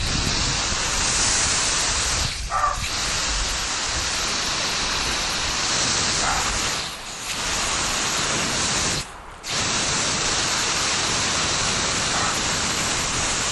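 A steady rushing hiss with no clear pitch, dipping briefly twice and dropping out almost completely for a moment about nine seconds in.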